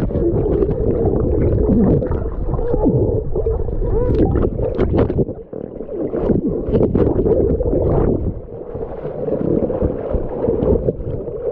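Water sloshing and gurgling, muffled, with several sharp splashes in the middle.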